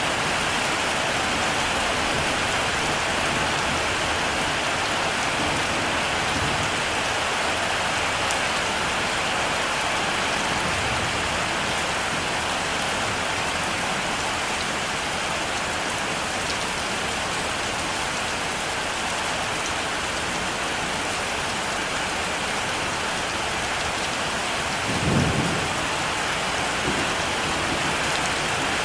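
Heavy rain falling steadily, with one short, low rumble of thunder near the end.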